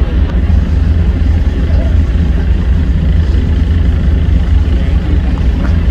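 Loud, steady low engine rumble from a vehicle, with no change in pitch or level.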